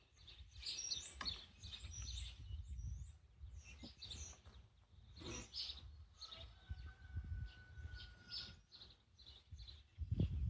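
Birds chirping repeatedly in the background over a low rumble, with a few faint clicks and knocks of parts being handled.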